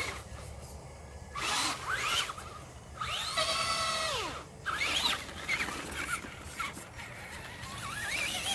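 Radio-controlled Traxxas truck's motor whining, rising and falling in pitch several times as it speeds up and slows, with one long rev in the middle.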